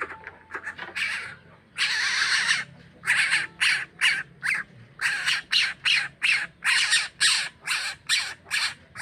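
Coucal giving harsh, raspy squawks: a few short ones, one long squawk about two seconds in, then a rapid run of short squawks at about three a second.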